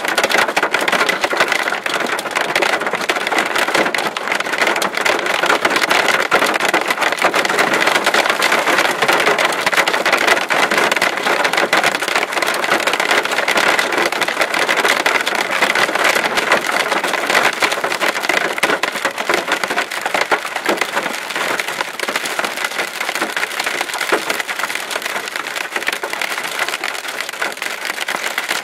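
Marble-sized hail and heavy rain pelting a vehicle as it drives through a severe thunderstorm's core, a loud, unbroken clatter of dense impacts.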